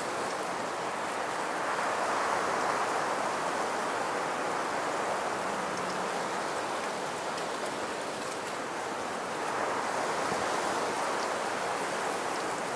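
Wind blowing through woodland trees, a steady rushing that swells in gusts about two seconds in and again near ten seconds.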